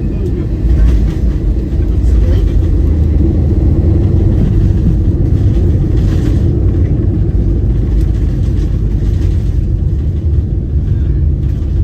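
Steady low roar of engine and airflow noise inside the cabin of an Airbus A320-200 jet airliner, swelling about a second in and staying loud.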